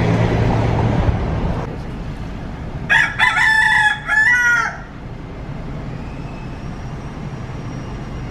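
Free-roaming rooster crowing once, about three seconds in, a call of roughly two seconds with a brief break partway through. Street noise and a vehicle engine hum fade out near the start.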